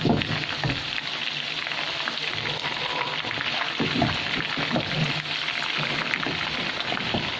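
Chicken pieces deep-frying in hot oil, a steady sizzle; the pieces are just beginning to brown.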